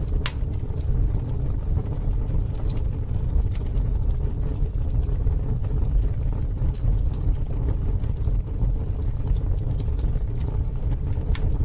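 Campfire burning with a steady low rumble and a few scattered sharp pops and crackles from the wood, about five in all.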